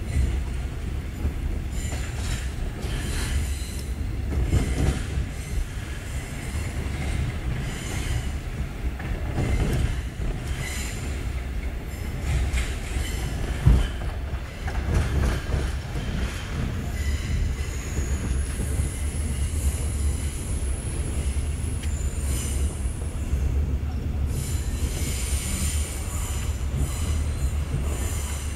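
KTM Senandung passenger train heard from on board as it comes into the station: a steady low rumble of the running gear with knocks from the rails, one sharp knock about 14 seconds in. High wheel squeal sets in about 18 seconds in and again near the end.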